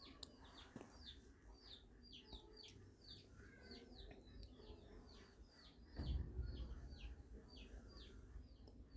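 A bird chirping in the background, faint: a steady run of short, high, falling chirps, about two a second. A brief low rumble comes about six seconds in.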